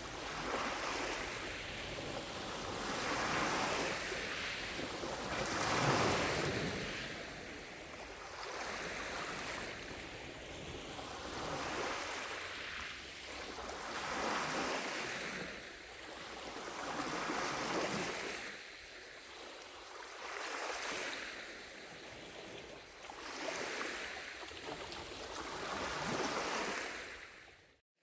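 Gentle lake waves washing onto the shore, one soft wash every two to three seconds. The sound cuts out abruptly for a moment near the end.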